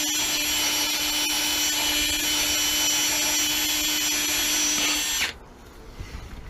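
Power drill running steadily with a high whine, spinning a Blue Monster brush to clean copper pipe. It cuts off about five seconds in, leaving faint clicks of handling.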